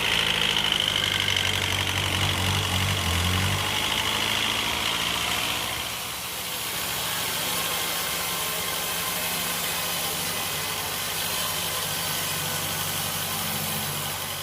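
Sawmill machinery engine running steadily, with a high whine over the first five seconds or so that then fades.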